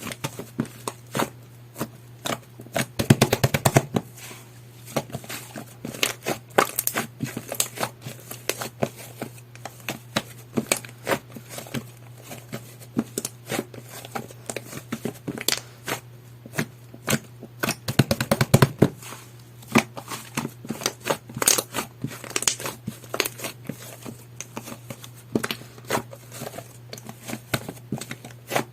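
Hands squishing and pressing jelly-textured slime, giving a run of sticky clicks and air-bubble pops. There are two bursts of rapid popping, one a few seconds in and one about two-thirds through.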